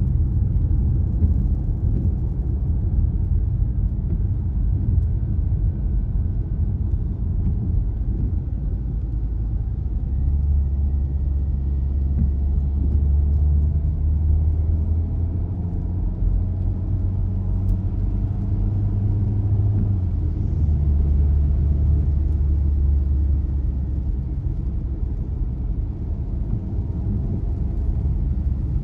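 Car driving: a steady low rumble of engine and tyre noise, with the engine note shifting lower and higher a few times as the speed changes.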